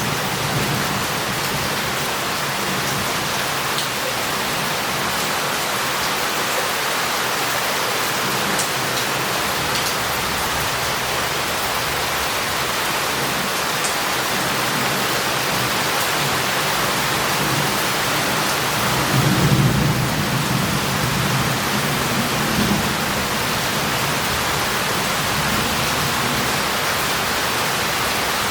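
Heavy rain falling steadily on a city street, with water running off tiles and down the alleys in a constant hiss. A low rumble of thunder swells about two-thirds of the way through.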